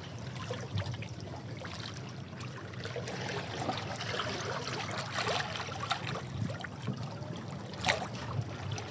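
Sea water washing over and around rocks: a continuous churning wash with small splashes and gurgles, and one sharper splash near the end.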